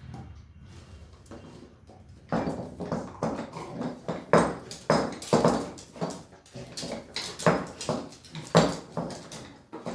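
Pit bull puppies scuffling and playing on a hard floor: a quiet start, then from about two seconds in an irregular run of sharp scuffs and knocks, roughly two a second.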